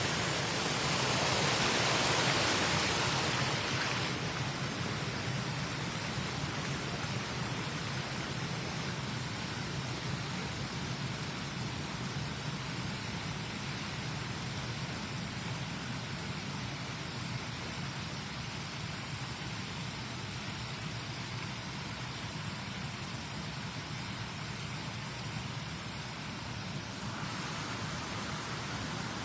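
Steady rushing background noise with no voices, a little louder and brighter for the first four seconds, then even.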